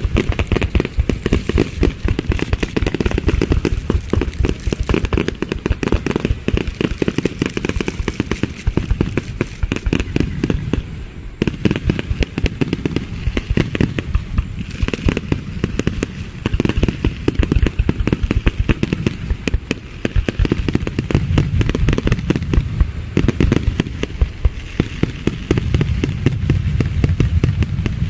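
Aerial fireworks going off continuously: a dense run of rapid pops and crackles, many a second, over a low rumble of booms, easing briefly about eleven seconds in.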